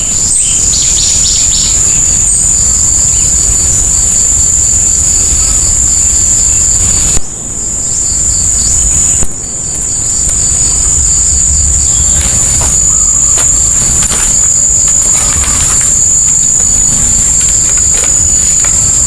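Insects shrilling in a steady high drone with a faster, regular pulsing trill under it, briefly broken twice.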